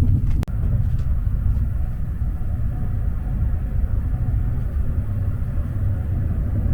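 Low rumble of a vehicle in motion, with one sharp click about half a second in.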